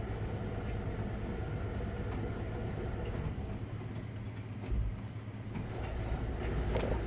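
Miele Novotronic W921 front-loading washing machine running: a steady motor hum, with a brief low thump about two-thirds of the way through.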